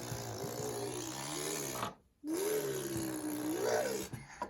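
A young child imitating a car engine with her voice: two long buzzing vroom sounds with a short breath between them, the second rising in pitch near the end.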